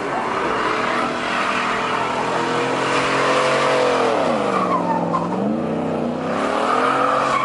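Car engine revving hard with its tyres spinning and squealing as it does donuts. The revs drop sharply about four and a half seconds in, then climb back up.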